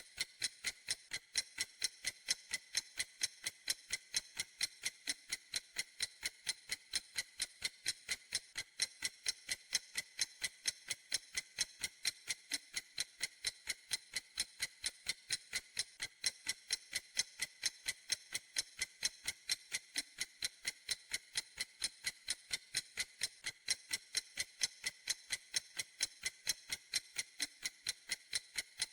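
Clock ticking steadily: quick, evenly spaced, sharp high ticks with almost no low end, unchanging throughout.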